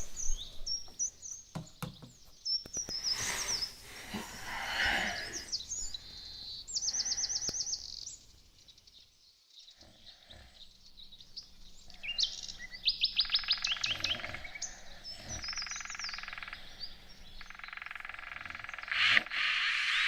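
Recorded birdsong played as a nature-sounds track: high chirps and fast trills of about eight notes a second, with a short pause about halfway through.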